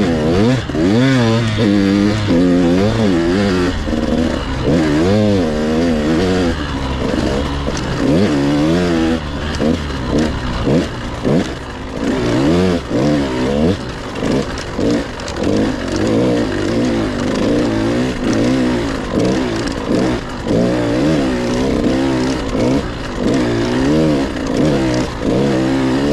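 Husqvarna TC 85 two-stroke dirt bike engine being ridden, revving up and falling back over and over as the throttle is worked, heard from a helmet chin-mounted camera.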